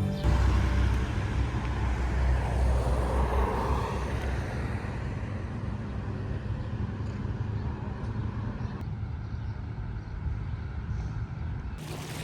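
Outdoor noise with a low rumble that fades after about four seconds, like a road vehicle passing, then a steady quieter hiss.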